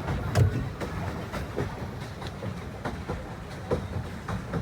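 Pedal boat being pedalled: a low rumble from the pedal drive and paddle wheel, with irregular light knocks and clicks.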